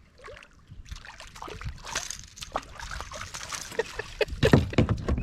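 Water splashing and sloshing as a hooked smallmouth bass thrashes at the surface beside a kayak, growing busier from about a second in, with a few heavy thumps near the end.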